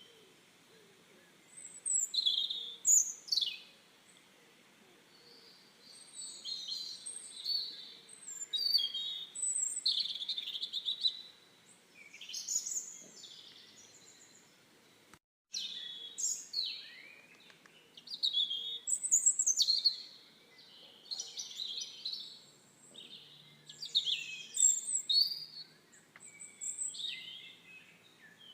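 Small songbirds chirping and singing, overlapping phrases of short high chirps and trills with brief lulls between them. The audio cuts out for a split second about halfway.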